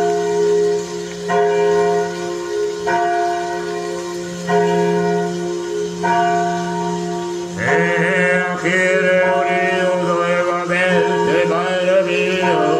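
A church bell tolling slowly, one strike about every second and a half, each ringing on. About two-thirds of the way through, a voice starts singing over it in a chant-like line.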